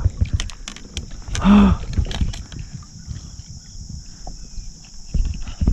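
A steady high buzz of insects, with scattered knocks and taps of handling in and around a kayak as a large fish is brought alongside. A short pitched grunt of effort comes about a second and a half in, and heavier thumps come near the end.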